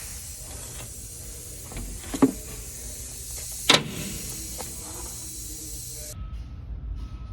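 Two sharp knocks about a second and a half apart over a steady hiss; the hiss cuts off suddenly near the end.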